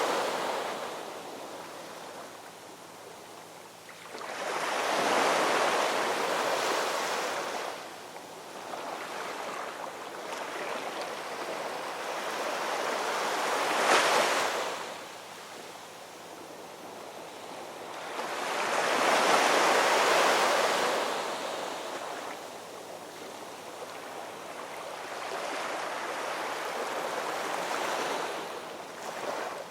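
Ocean waves washing in and breaking in slow swells every several seconds, with one sharper crash about halfway through.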